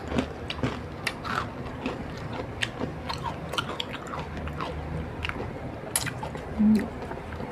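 Close-up chewing of a crisp boondi laddu: irregular small crunches and crackles in the mouth, with a brief low hum near the end.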